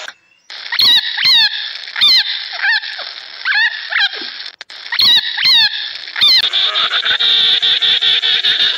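Loud animal calls, each a short wavering note falling in pitch, repeated about twice a second. About six and a half seconds in, a denser run of rapid pulsed calls takes over.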